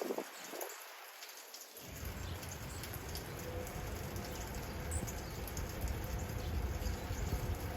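Wet snow crackling and pattering as a steady fine ticking, with winter wind rumbling low on the microphone that comes in about two seconds in.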